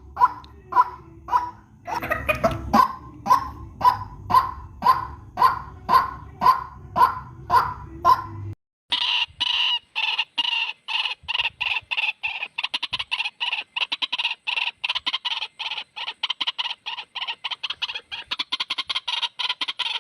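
Lure-call recording of a white-breasted waterhen (ruak-ruak), one call repeated about twice a second over a low background hum. About eight seconds in, the recording cuts off abruptly and switches to a faster, denser run of calls with no hum.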